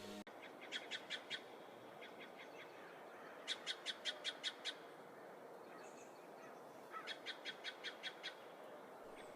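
A bird calling in quick runs of short, sharp notes, about six or seven a second, in three bouts, over a faint steady hiss of outdoor ambience.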